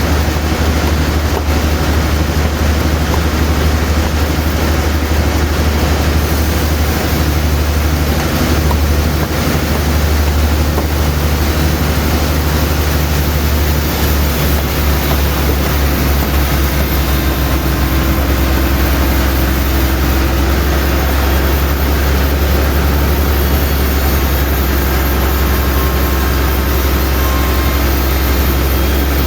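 Sawmill machinery running steadily: a heavy engine's loud, constant low drone with a wide rushing noise over it, its tone shifting slightly about halfway through.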